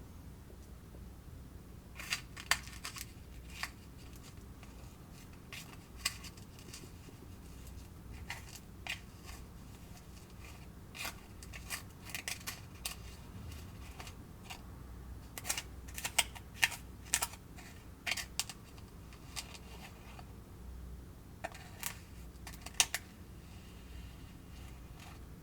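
Scattered small clicks and taps of plastic and utensils as a Kracie DIY candy kit is worked by hand, coming in quick clusters about halfway through and again near the end, over a low steady room hum.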